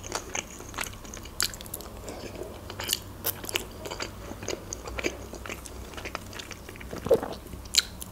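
A person chewing grilled chicken close to the microphone: irregular short clicks and smacks of the mouth, a few every second.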